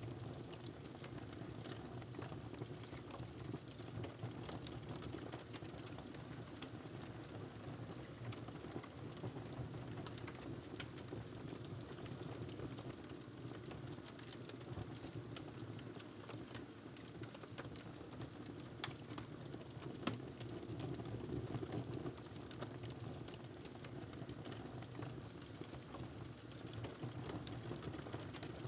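Wood fire crackling in a fireplace: many small scattered pops and clicks over a steady low rumble, with a couple of louder pops about two-thirds of the way in.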